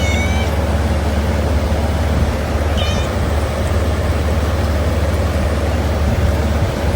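A cat meowing: two short high-pitched cries, one right at the start and another about three seconds in, over a steady low rumble.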